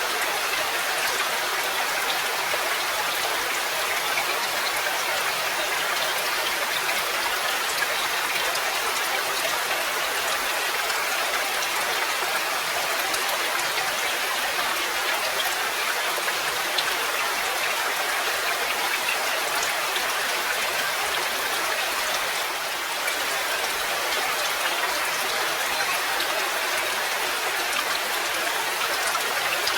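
Steady rain falling, a dense even patter of drops over a constant hiss.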